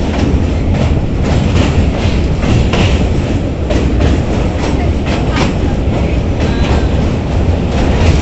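Passenger train running over a bridge: a steady, loud low rumble of wheels on rail with a continuous irregular clatter.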